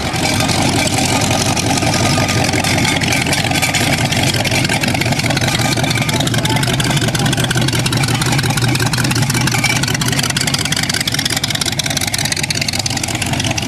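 Rat rod pickup's open engine running with a rough, rapid exhaust beat as the car drives slowly past.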